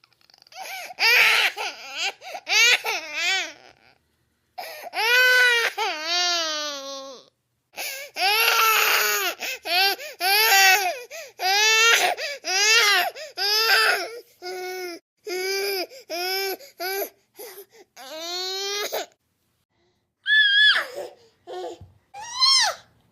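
Cartoon baby girl voice from a sound-effects library crying and wailing in a string of short separate clips. The cries are high-pitched and wavering, and brief silences fall between them.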